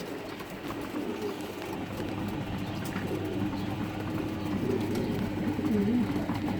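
Several racing pigeons cooing, their low wavering calls overlapping, a little louder near the end.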